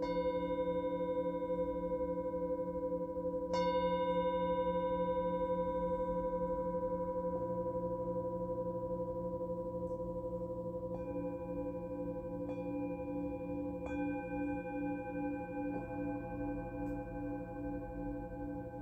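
Singing bowls of several pitches struck one after another, about seven strikes, each leaving a long ringing tone that overlaps the others. Some of the tones pulse with a slow wavering beat.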